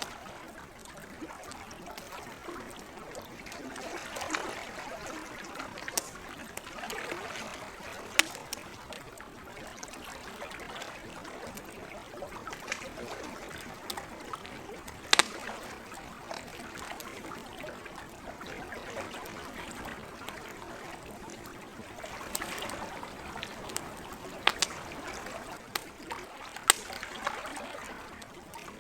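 Campfire crackling, with scattered sharp pops, the loudest about halfway through, over the gentle lapping of lake water that swells and eases.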